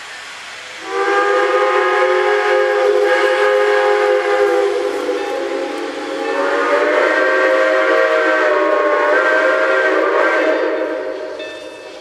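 Steam locomotive's chime whistle blowing one long blast of about nine seconds, several notes sounding together, its chord shifting about halfway through before it fades out; a steam hiss runs underneath.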